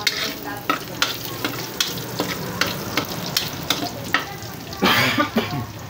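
Minced garlic sizzling in a little rendered pork fat in a pan, with a metal spatula clicking and scraping against the pan as it is stirred. A short, louder burst of noise comes near the end.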